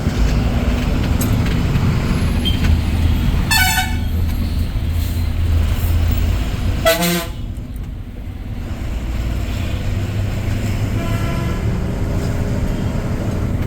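Vehicle horns honking over a steady low engine hum: one honk about three and a half seconds in, a second about seven seconds in, and a fainter one near the end.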